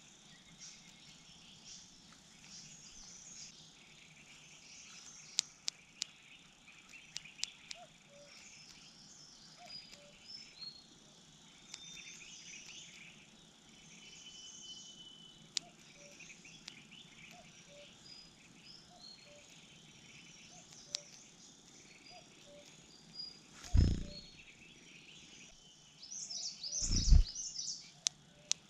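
Wild birds chirping and twittering, with a faint low note repeating about once a second and scattered sharp clicks. Near the end come two loud low thumps, the second with a burst of loud chirping.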